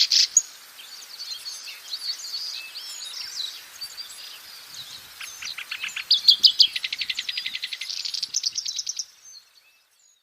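Black-browed reed warbler singing: fast runs of repeated harsh notes alternating with a softer, varied chattering warble, stopping about nine seconds in.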